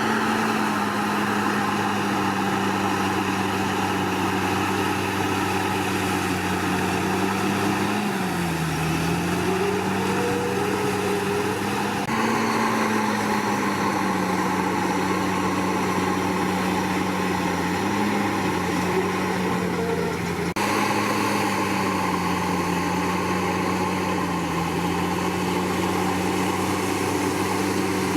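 Komatsu D61PX bulldozer's diesel engine running steadily under working load, its pitch dipping briefly and recovering a few times as the blade takes the load.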